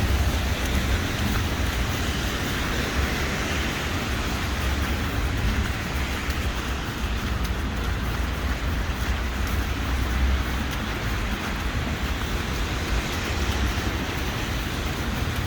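Steady city street noise: a continuous hiss of traffic with a low rumble underneath.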